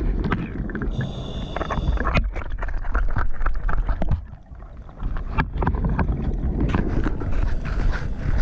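Scuba diver breathing through a regulator, with exhaled bubbles rushing and crackling. The sound drops away briefly about four seconds in, then the bubbling resumes.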